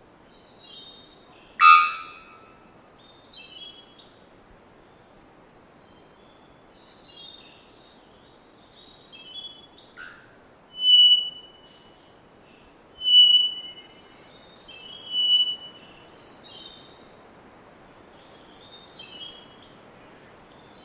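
Forest field recording of three-wattled bellbird calls: a loud, sharp call about two seconds in, then three clear, steady whistled notes about two seconds apart near the middle, among the chirps of other birds.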